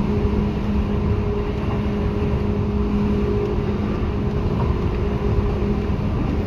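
Seibu 2000 series electric train running at a steady speed, heard from inside the car: a dense low rumble of wheels on rails with two steady hums from the running gear.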